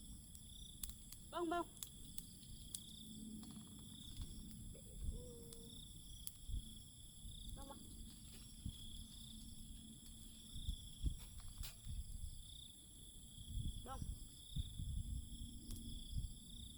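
Crickets and other night insects trilling steadily, with scattered sharp crackles and pops from a wood campfire. Three brief pitched calls break in about 1.5, 7.7 and 14 seconds in.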